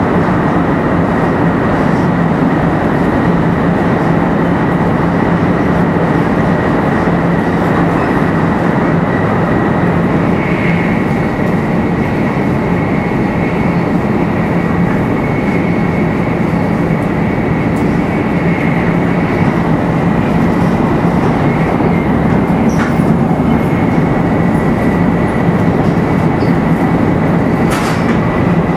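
500 series Shinkansen motor car 527-7707, with a Toshiba GTO VVVF inverter drive, running steadily at speed. A constant rolling and running noise carries a thin steady high whine with no change in pitch, and there are two faint clicks near the end.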